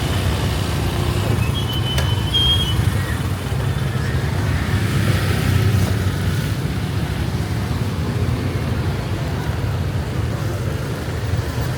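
City street traffic: a steady low rumble of passing vehicles, with a brief high squeak about two seconds in.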